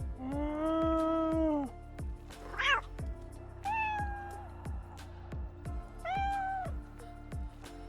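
Domestic cat meowing four times, the first meow long and drawn out, the others shorter, over background music with a steady beat.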